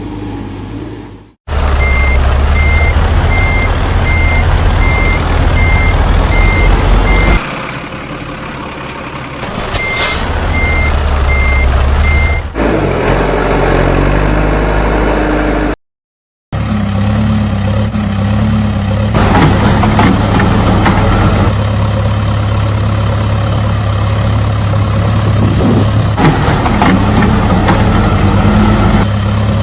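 Heavy construction vehicle engine running with a reversing alarm beeping about twice a second over it; the beeping stops and starts again, and the sound is cut abruptly between clips. After a short silence midway, a heavy engine runs steadily.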